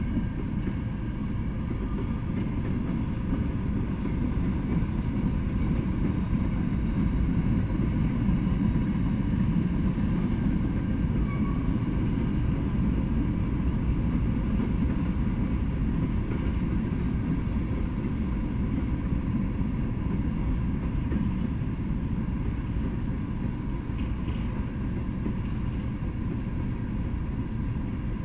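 Freight train of covered hopper cars and a tank car rolling past: a steady low rumble of wheels on the rails that does not let up.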